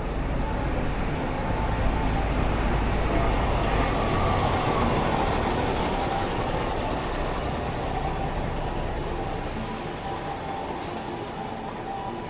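City traffic: a heavy vehicle passing close by, its low rumble and tyre noise swelling over the first few seconds, then fading away.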